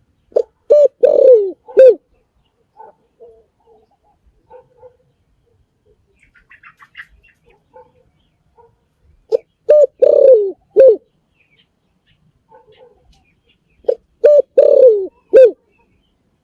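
Spotted dove cooing: three phrases of about four low coos each, the longer third coo falling in pitch. Fainter cooing and a few small high chirps come between the phrases.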